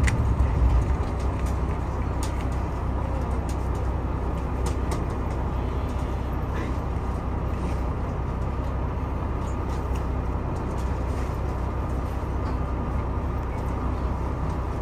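Steady low rumble and hum of a train standing at a station platform, heard from inside the car, with a few faint clicks.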